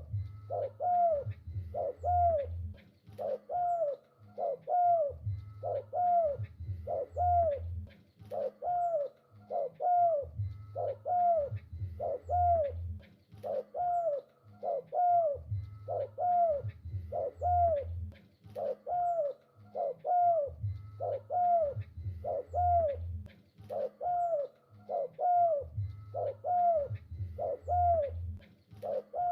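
Spotted dove cooing continuously: short arched coo notes repeating about twice a second, with deeper low coos in phrases every few seconds.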